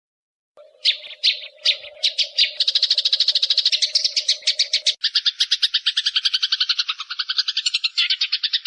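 Eurasian tree sparrows in a fighting chatter: a few sharp separate chirps, then a fast, unbroken run of harsh notes, about a dozen a second, that drops lower in pitch about five seconds in. A steady hum sits beneath the first five seconds.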